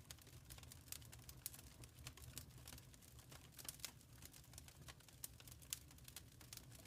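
Wood fire crackling softly in a fireplace: irregular quick pops and snaps, a few louder ones, over a low steady rumble of the burning logs.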